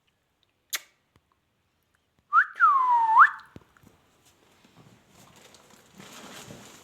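A parrot whistling: one loud, clear whistle that slides down in pitch and then swoops sharply back up, about two and a half seconds in, after a single sharp click just under a second in. Faint rustling follows near the end.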